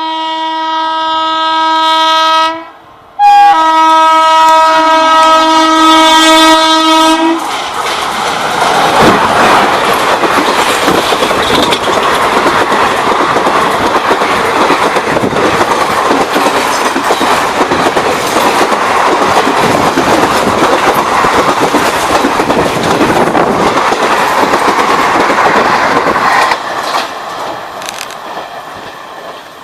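Indian Railways electric locomotive sounding its horn in two long blasts, then an express train passing at speed with steady wheel-on-rail rumble and clatter, dropping away near the end as the train recedes.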